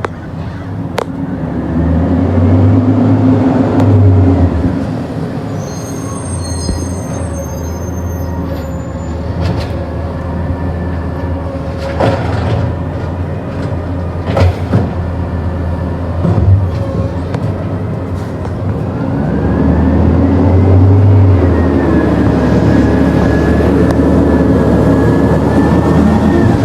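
Garbage truck's diesel engine revving up to work its hydraulics, once about two seconds in and again about twenty seconds in, with a rising and falling whine over the engine. A few sharp knocks and some brief high squeals come in between.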